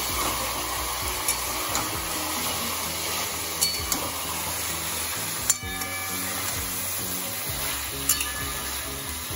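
Marinated mutton pieces sizzling as they fry on a high flame in a metal kadai, with a flat spatula stirring them and knocking against the pan several times.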